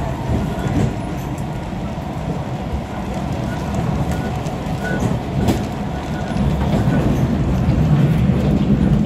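An SMRT East West Line train running at speed on an elevated track: a steady rumble of wheels on rail heard from inside the carriage, growing louder near the end.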